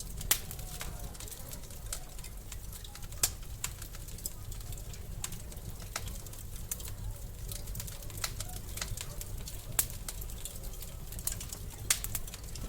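Wood fire crackling in a fireplace: sharp, irregular pops and snaps over a steady low rumble of the flames, with the loudest pops about a third of a second in, near three seconds, and twice near the end.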